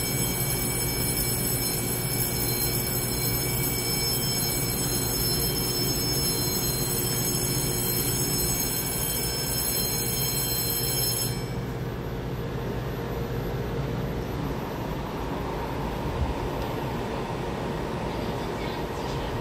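EMU900 electric commuter train at an underground platform: a steady low rumble with several steady high electrical whines over it, which cut off suddenly about eleven seconds in, leaving the rumble.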